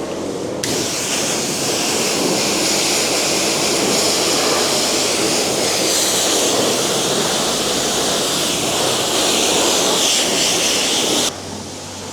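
High-pressure water spray from a self-service wash wand: a steady, loud hiss that starts suddenly about half a second in and cuts off suddenly near the end.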